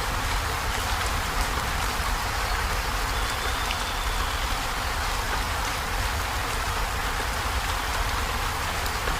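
Heavy rain falling on a corrugated zinc roof: a steady, dense patter with scattered sharper drop ticks over a low rumble.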